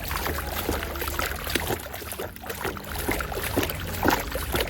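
Water splashing and sloshing with many small irregular splashes and light knocks as a muddy toy truck is washed by hand.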